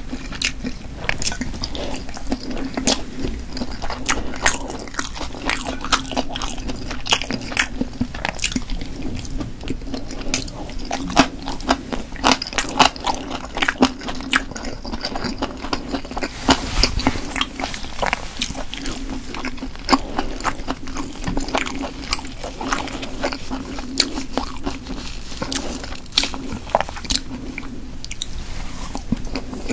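Someone chewing crunchy stir-fried pork cartilage: a continuous, irregular run of crisp crunches and clicks.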